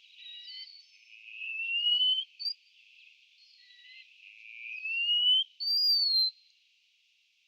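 A songbird's whistled song: two slow rising whistles, then a higher, shorter whistle falling in pitch, with faint chirps between.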